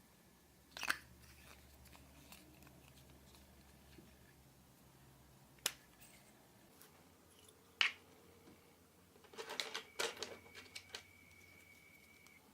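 Glossy slime being handled: scattered sharp clicks and pops, then a quick run of crackly pops about nine to eleven seconds in.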